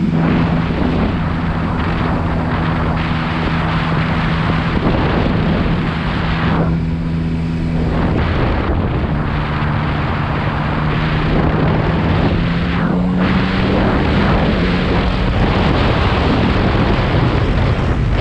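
Motorcycle engine running at a steady cruise, heard under heavy wind rush on the microphone; the engine note breaks off and changes pitch briefly a couple of times along the way.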